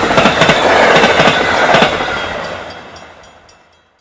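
Train running on the rails, its wheels clattering in a rapid, uneven run of clicks over the steady rumble. The sound fades away over the second half.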